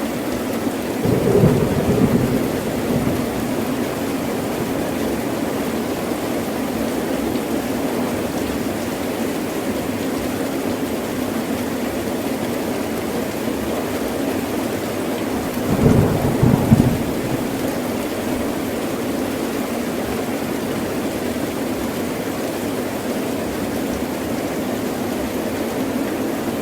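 Heavy rain falling steadily, with two low thunder rumbles, one about a second in and another about halfway through.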